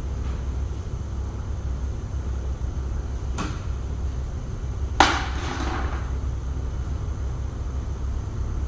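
One sharp knock about five seconds in, with a short ringing tail, and a fainter click shortly before it, over a steady low hum.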